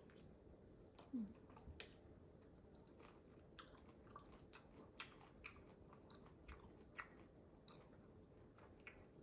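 Faint close-up chewing of a prawn, head and shell included, with scattered soft crunches and clicks.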